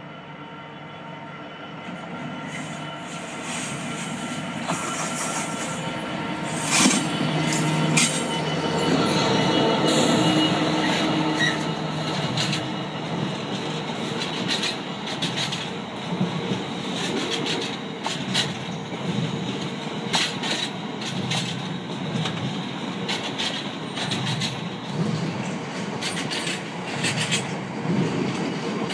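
Freightliner Class 66 diesel-electric locomotive, with its two-stroke V12 engine, approaching and passing, growing louder to a peak about seven to ten seconds in. Then a long rake of covered hopper wagons rolls by with a steady rumble, irregular wheel clicks over the rail joints and a thin high squeal.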